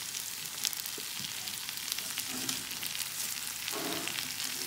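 Onions, garlic and freshly added sliced cabbage frying in butter in a pan: a steady sizzle with fine crackling.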